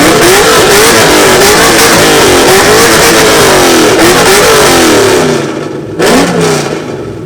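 A 2002 car's engine and exhaust being revved hard while parked, for judging of its exhaust sound. The revs are held high for about five seconds with the pitch wavering up and down. They then drop, a quick blip follows about six seconds in, and the engine falls back toward idle.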